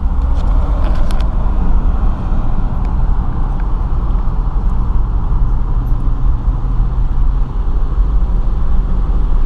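Steady low road rumble and engine hum inside a moving car in slow freeway traffic.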